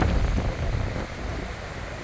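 Sea wind buffeting the microphone with a gusty low rumble over the wash of ocean waves, easing a little in the second half.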